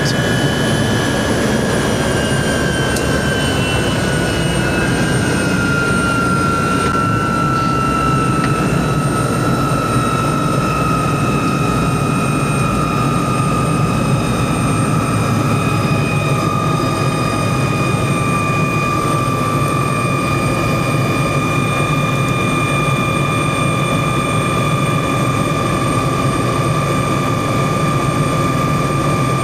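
Helicopter running steadily: a loud, even engine and rotor din with a high whine on top that slides a little lower in pitch over the first dozen seconds, then holds.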